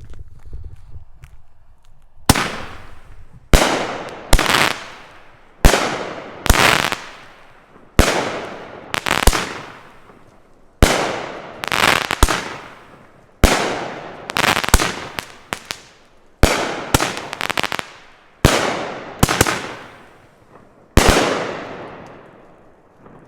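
Twisted, a 9-shot 200 g firework cake with 1-inch tubes by Sky Painter Fireworks, firing. From about two seconds in there is a string of sharp bangs roughly a second apart, each shot's launch followed shortly by the bang of its break, the last near the end.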